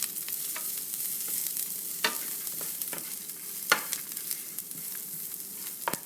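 Sliced onions and whole spices sizzling in a little oil in a pan while being stirred, with the steady hiss of frying and a few sharp clicks of the stirring utensil against the pan, about 2, 3.7 and 6 seconds in.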